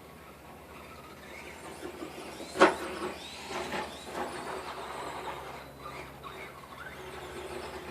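Electric RC car running with a faint high whine. About two and a half seconds in there is one sharp knock, the loudest sound, and a few fainter knocks follow over the next few seconds.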